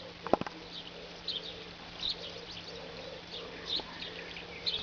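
Swallows twittering, short high chirps repeated over a steady hiss of rain, with a single sharp knock just after the start.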